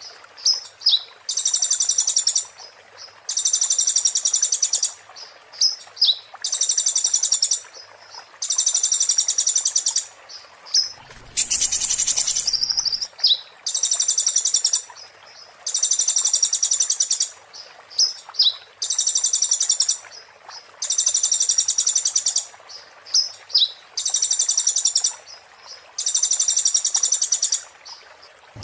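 Konin songbird singing a shrill, rapid high trill in bursts of about a second and a half, repeated roughly every two seconds, with short sharp chips between them: the sharp 'muntah beling' song. A brief rustling noise comes about eleven seconds in.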